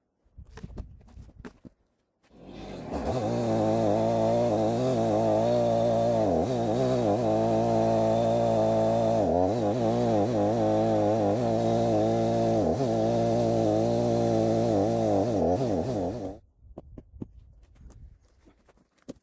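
Chainsaw engine running for about fourteen seconds, starting a couple of seconds in and cutting off sharply, its pitch wavering and dipping several times as the chain takes load in a log. Short knocks and clatter before it starts and after it stops.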